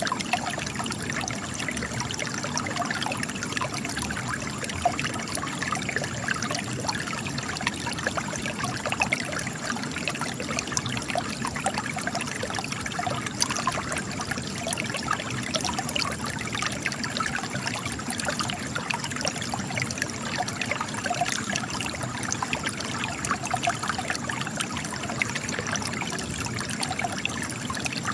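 Spring water trickling and splashing steadily as it runs out of cracks in rock, with fine, constant spatter and no pauses.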